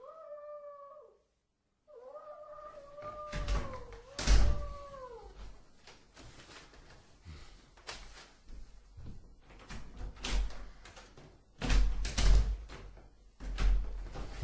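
Staged sound effects: a long wavering cry that falls in pitch at its end, then a second, longer one, followed by a run of heavy thumps and knocks like a door banging. The loudest thumps come about four seconds in and again about twelve seconds in.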